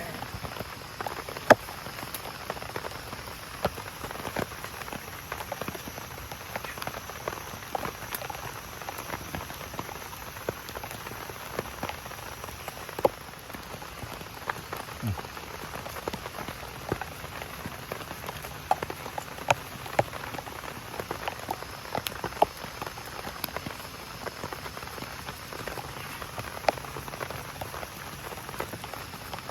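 Rain falling steadily, with frequent irregular sharp taps of individual drops hitting a nearby surface.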